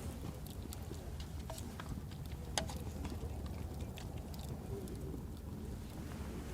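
Wood campfire crackling, with scattered sharp pops over a steady low rumble; the loudest pop comes about two and a half seconds in.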